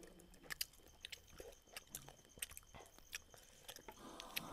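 Quiet mouth sounds of people biting and chewing pieces of roast duck: scattered small clicks and smacks at irregular intervals.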